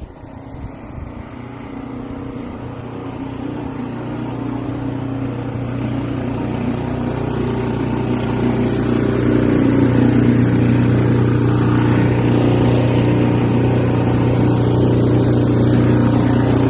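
An engine running at a steady pitch, growing steadily louder over about ten seconds and then holding.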